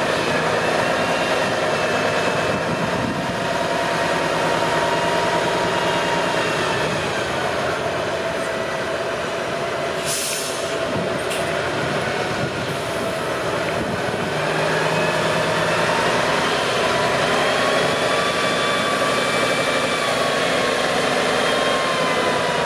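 Heavy off-road truck running under load, with a whine that slowly falls and rises in pitch. A short hiss comes about ten seconds in.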